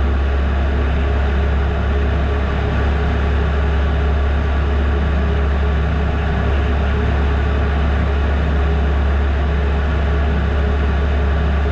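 1979 Piper Super Cub PA-18-150's 150-horsepower four-cylinder Lycoming engine and propeller running steadily in flight, heard from inside the cabin, with carb heat on for the approach.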